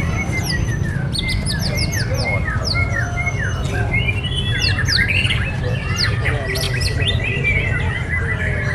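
Several caged murai batu (white-rumped shamas) singing at once, a dense tangle of rapid chirps and repeated downward-sweeping whistles. One bird holds a long whistle from about halfway to near the end. A steady low rumble runs underneath.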